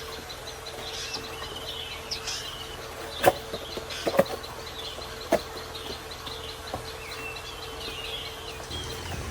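Small birds chirping, with a faint steady hum underneath and a few sharp knocks or taps about three, four and five seconds in, the first the loudest.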